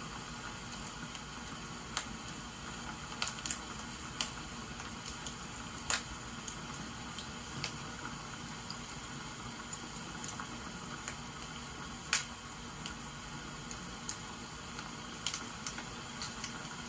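Wood fire crackling, with irregular sharp pops over a steady hiss of rain.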